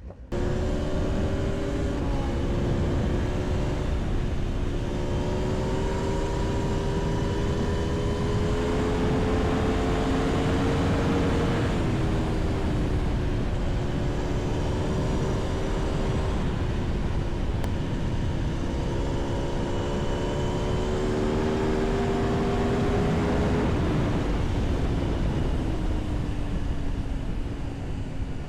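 Aprilia Tuono V4 motorcycle's V4 engine pulling under acceleration, with wind rushing past. The engine note climbs slowly twice over many seconds and drops back each time, about a third of the way in and again past the three-quarter mark.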